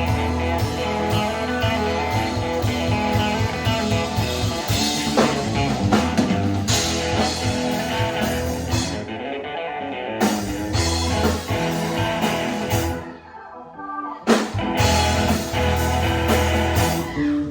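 Rock band playing an instrumental passage with guitar, bass and drums; the music thins out briefly about three-quarters of the way through, then comes back in.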